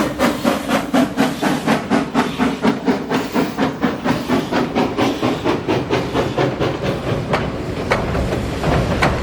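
2-8-0 Consolidation steam locomotive working past with a fast, even exhaust beat of about five chuffs a second, each chuff hissing. The beat fades after about six seconds, leaving the rumble of the train with a few sharp clicks of wheels over rail joints.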